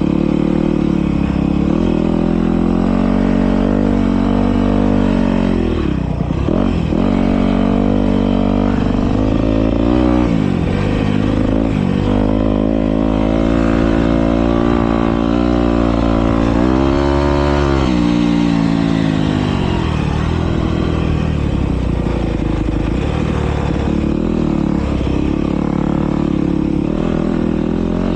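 Several motocross bikes racing, their engines revving up and down as they accelerate and shift, with deep dips and climbs in pitch several times.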